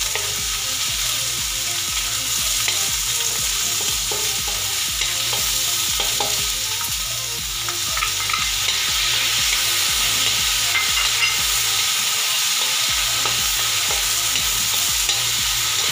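Diced onion and garlic frying in oil in a metal wok, sizzling steadily while a wooden spatula stirs and scrapes them around the pan.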